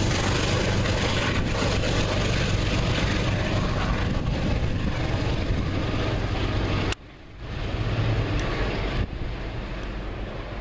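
Metro-North train with a GE P32AC-DM diesel locomotive running, a steady low engine hum under the general rumble of the train as it moves away. The sound drops suddenly about seven seconds in, then carries on quieter.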